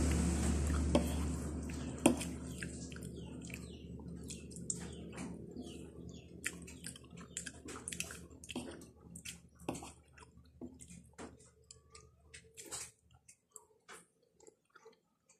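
Close-up wet chewing and mouth-smacking while eating a jackfruit salad: many short, irregular clicks and squelches. A louder steady noise with a low hum fades away over the first few seconds.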